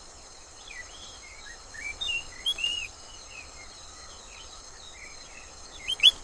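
Small birds chirping in short, scattered calls over a steady, high, insect-like drone, with a louder run of chirps near the end.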